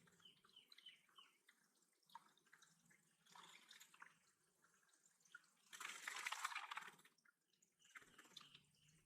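Faint dripping and splashing water: short light drips, then splashy bursts about three and a half and six seconds in, the second the loudest.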